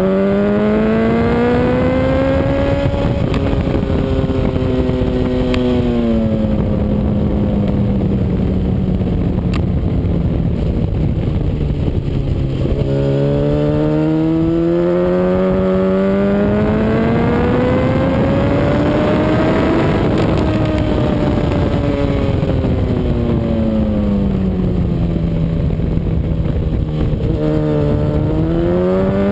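A Honda CBR RR sportbike's inline-four engine running hard on a race track. It revs up in long climbs and winds back down as the bike accelerates and slows through the corners, with a long rising pull in the middle followed by a steady fall in pitch.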